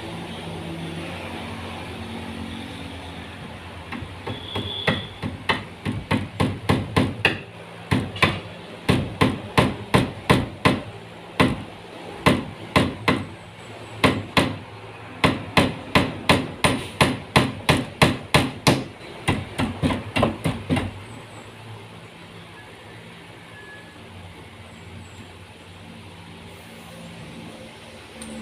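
Hammer blows during carpentry work: runs of quick, even strikes, about three a second, broken by short pauses, starting about five seconds in and stopping about five seconds before the end.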